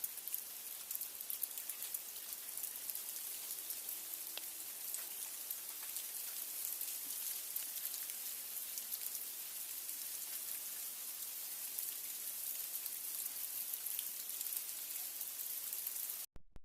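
Sleet and freezing rain falling: a dense, steady patter of fine ticks over a high hiss. It cuts off suddenly near the end.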